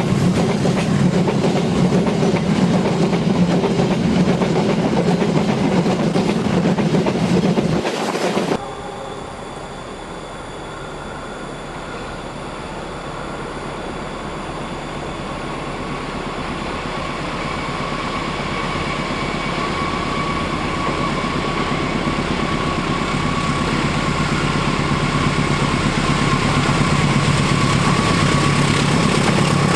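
Freight train of flat wagons rolling past, with wheels clattering over the rail joints, cut off suddenly after about eight seconds. Then a diesel locomotive's engine with a steady whine, growing steadily louder.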